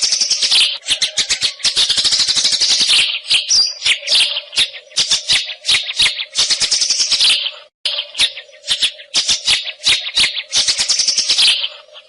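White-rumped shama (murai hutan) singing in fast runs of sharp, rattling, chattering notes, with a brief break just before the middle.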